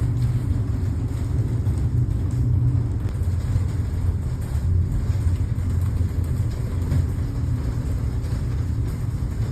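Strong storm wind buffeting the microphone: a loud, steady low rumble that rises and falls a little.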